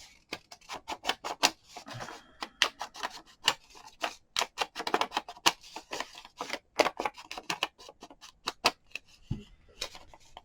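Quick, irregular run of sharp clicks and taps from paper and craft tools being handled on a work table.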